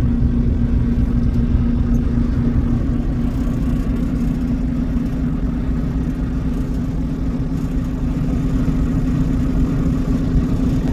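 Steady low drone of a truck's engine heard from inside the cab, with a constant hum over an even rumble.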